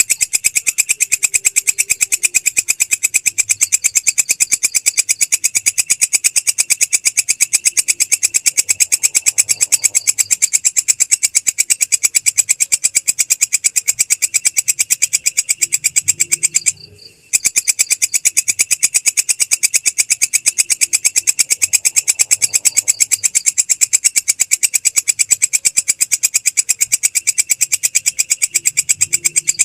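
Belalang krek singing insect stridulating in a continuous, very fast, high-pitched pulsing trill that breaks off briefly about 17 seconds in.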